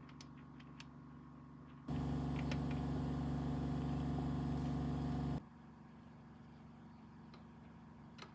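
A steady machine hum, likely an electric motor or pump, switches on abruptly about two seconds in, runs evenly for about three and a half seconds and cuts off suddenly. A fainter low hum and a few light clicks lie under it.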